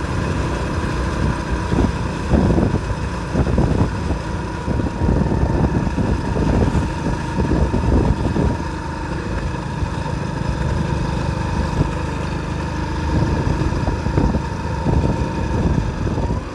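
Motorcycle engine running steadily while riding, with wind gusting on the microphone.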